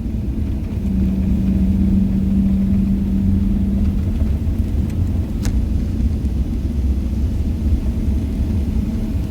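Steady low rumble of a Boeing 777-300ER heard from inside the cabin, with a steady hum for the first few seconds and a single sharp click about halfway through.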